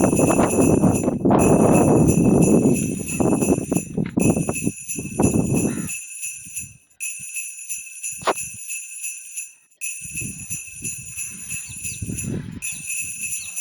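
High jingling ring that breaks off briefly about every three seconds, over a loud rumbling noise that stops about six seconds in; after that, scattered knocks.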